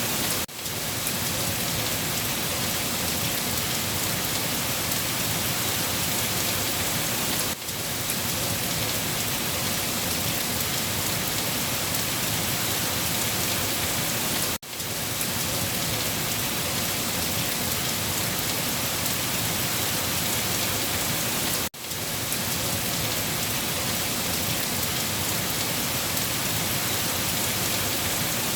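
Steady heavy rain falling and pattering on surfaces, an even wash of noise. The level dips sharply for an instant about every seven seconds.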